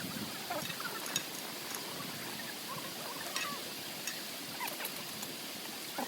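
Mountain valley stream flowing steadily, with a few light clicks and knocks scattered through.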